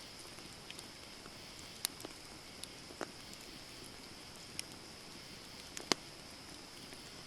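Wood campfire burning with a steady soft hiss and irregular sharp crackles and pops. The loudest pop comes about six seconds in.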